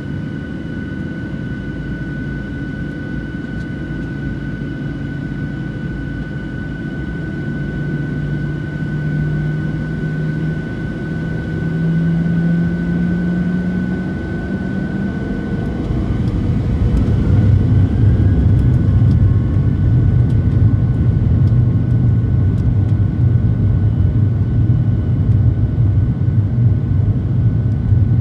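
Boeing 737-700's CFM56-7B jet engines running with a steady whine and a low hum that creeps upward in pitch. About halfway through they swell into a louder, deeper rumble, typical of thrust coming up for the takeoff roll.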